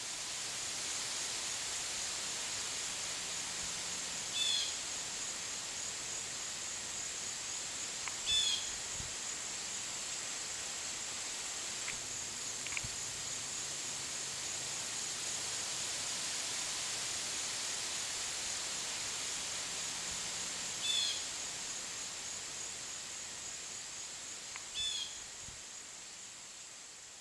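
Outdoor ambience: a steady high-pitched drone, with a bird's short call of a few quick notes stepping down in pitch, heard four times. The sound fades out near the end.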